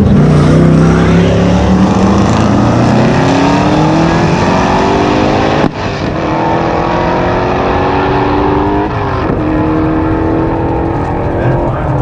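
High-powered car engine accelerating hard, its pitch climbing steadily for several seconds. It breaks off abruptly about halfway through, then climbs again, with a gear change near the end.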